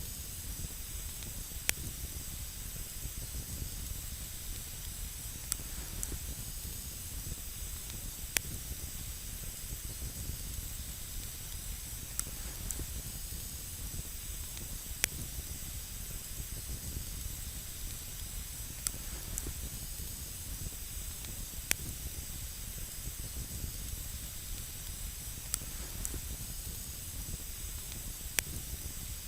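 Campfire burning with a steady hiss and a sharp pop of the wood every few seconds, about nine in all.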